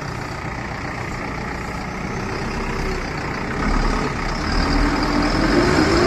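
Heavy diesel engines of a JCB machine and a stuck tractor running under load as the JCB pushes the tractor. About four seconds in the engine gets louder and its pitch climbs as it revs up.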